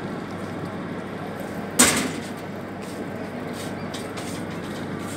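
Steady running noise of a passenger train heard from its open doorway, with one sharp, loud crack about two seconds in that dies away quickly.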